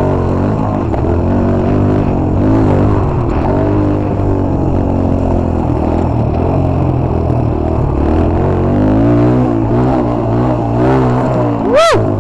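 Off-road motorcycle engine being ridden, its pitch rising and falling as the throttle is worked. Near the end a short, loud high-pitched sweep rises and falls.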